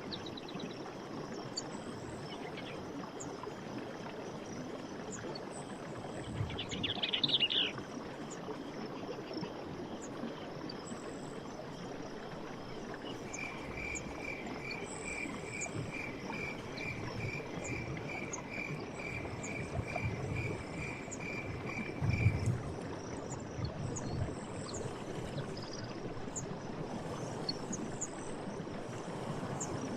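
Steady rush of running stream water with birds chirping over it. A rapid high trill sounds about seven seconds in, and in the middle a call of short high notes repeats about twice a second for roughly nine seconds.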